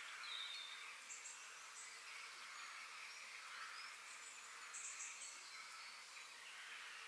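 Faint forest ambience: a steady high hiss with short, high chirps and trills from small birds, a couple near the start and a couple around the middle.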